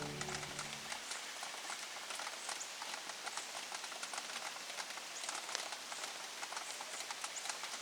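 Steady rain, many small drops pattering irregularly, with the last of the background music dying away in the first second.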